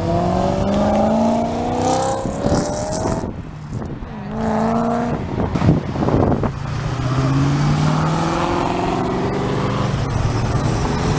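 Car engines accelerating hard, the pitch climbing through the gears and dropping back at each shift. A fresh pull starts about four seconds in, and a slower, steadier climb fills the second half.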